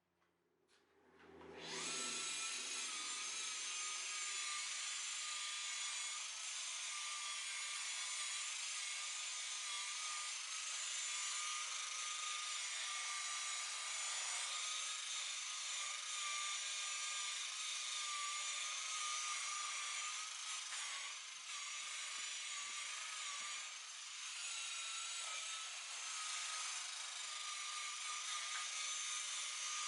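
Electric buffer-polisher starting up about a second in and then running steadily with a high whine, its pad rubbing against the boat's gelcoat.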